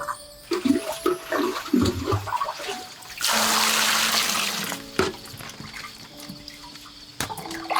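Water splashing, then poured in a steady rush for about a second and a half, then splashing again, as in washing food in a basin; soft background music plays underneath.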